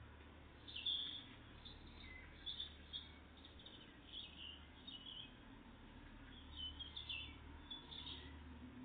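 Tits giving short, high chirps and calls, scattered through, the loudest about a second in, over a steady low hum.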